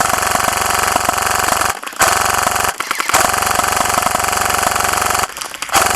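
G&P M249 MKII airsoft electric gun firing full-auto in long bursts, the gearbox motor and piston cycling in a fast, even rattle. Three bursts with brief pauses between them (about two seconds, under a second, then about two seconds), and a fourth starting near the end.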